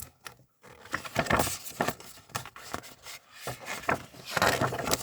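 Paper rustling as a picture book is opened and its pages are turned. It comes in several short bursts, and the longest is near the end.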